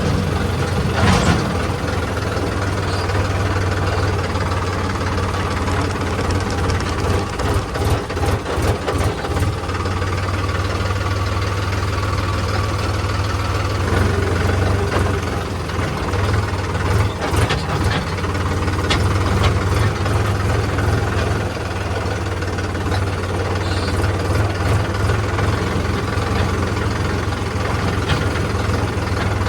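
Heavy diesel engine running steadily at idle, with short clattering knocks now and then.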